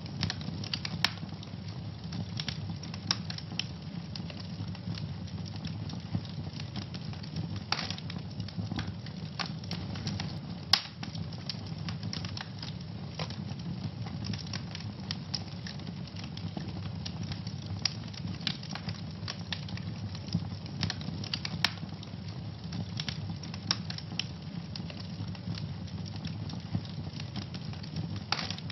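Wood fire burning in a fireplace, crackling with irregular sharp pops over a steady low rumble of the flames. One louder pop comes about eleven seconds in.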